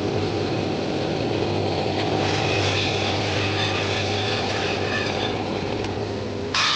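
Steady running of an electric machine in a blacksmith's workshop: a constant low hum under a dense rushing noise, which cuts off suddenly near the end.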